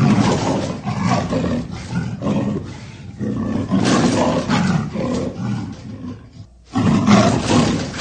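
An animal roaring loudly in three long bouts, with short breaks between them.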